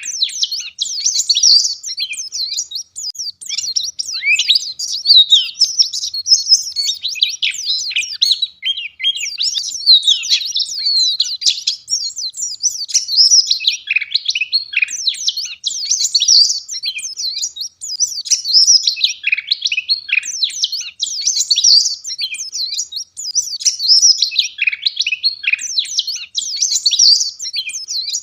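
Pleci (white-eye) singing in full 'gacor' voice: a dense, rapid, high-pitched twittering warble, strung together almost without pause.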